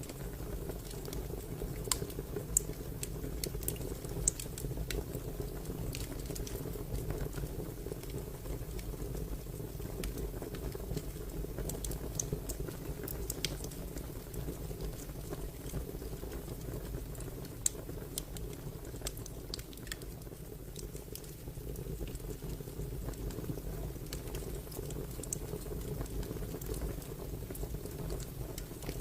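Fire crackling: a steady low rumble of flames with scattered sharp pops and snaps.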